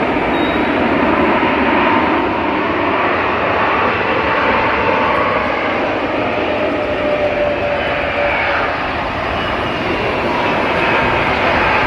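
Airliner's jet engines running loudly and steadily as an aircraft moves near the airport, with a faint whine that slowly drops in pitch.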